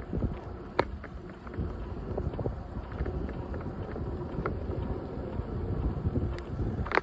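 Bicycle rolling along a trail: steady tyre rumble and wind on the microphone, with a few sharp clicks, one about a second in and a cluster near the end.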